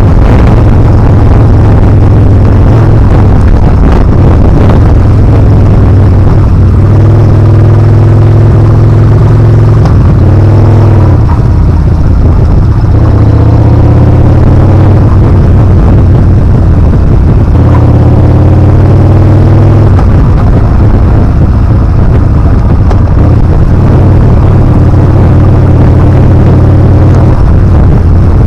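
Yamaha Bolt R-spec's air-cooled V-twin engine running on the move, its note rising and then falling back twice, about a third and about two-thirds of the way through, with wind rumbling on the microphone.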